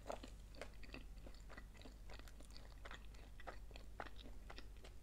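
A person chewing crisp corn tortilla chips close to the microphone: a quiet, steady run of small crunches, several a second.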